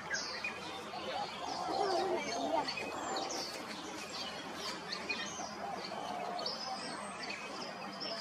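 Small birds chirping in many short, high notes, over a steady background hiss.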